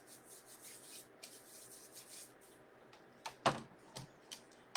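Craft materials handled on a tabletop: faint rustling, then a few light knocks and clicks about three and a half seconds in.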